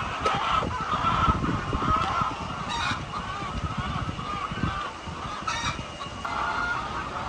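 A large flock of chickens calling, many overlapping calls at once, with a few sharper squawks standing out, over low rumbling and knocking.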